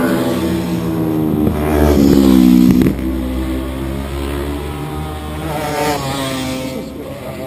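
Racing motorcycles passing on a street circuit at full throttle, their engine pitch rising and falling through gear changes. The loudest bike builds about two seconds in and drops away sharply near three seconds, and another rises and fades around six seconds.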